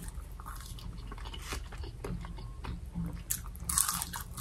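Close-up biting and chewing on a fried salt and pepper chicken wing: wet mouth clicks and small crunches, getting busier and louder about three seconds in.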